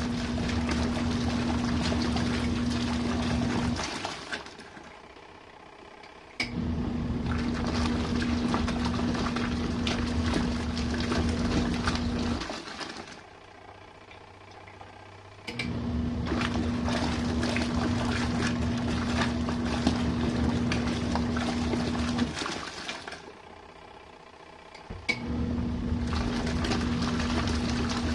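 RV washing machine agitating in its main wash: the motor hums steadily with water churning in the drum for about six seconds at a time. It stops three times for two to three seconds and starts again each time with a click.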